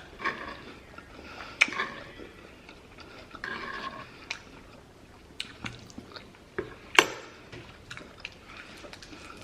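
A person chewing food close to the microphone, with wet mouth clicks and smacks scattered through; one sharper click stands out about seven seconds in.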